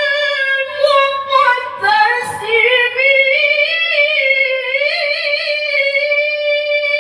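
Qur'anic recitation in the melodic mujawwad style: a single unaccompanied voice holds long, high notes and bends them through ornamented melismatic turns, with brief breaks between phrases.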